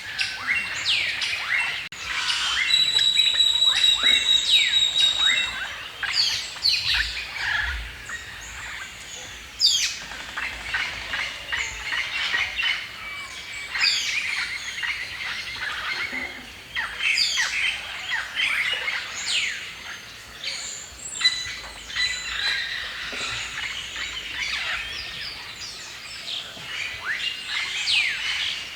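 A mixed chorus of birds chirping and singing, full of quick downward-sweeping notes from several birds at once. About three seconds in, one bird holds a steady high whistle for a couple of seconds.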